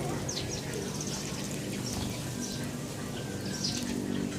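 Small birds chirping: many short, high chirps and quick falling tweets, repeated throughout.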